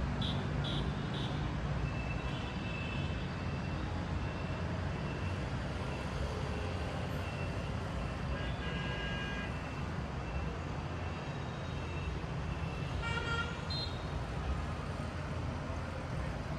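Steady low rumble of city street traffic heard from above. A few short, faint high-pitched tones sound over it: three quick beeps just after the start, and more brief tones around the middle and about two-thirds of the way through.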